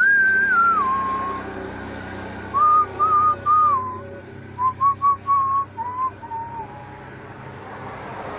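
A person whistling a tune in short phrases of clear single notes, sliding between pitches, over a steady low background rumble.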